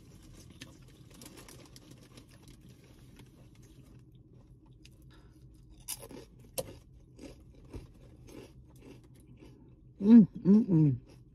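A person chewing a sub sandwich with the mouth closed: faint wet crackle with a few small smacking clicks. Near the end comes a brief, loud hummed voice sound of about three syllables.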